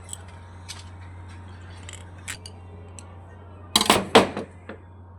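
Metal tools and parts clicking and clinking as they are handled, with a louder burst of metallic clatter about four seconds in, over a steady low hum.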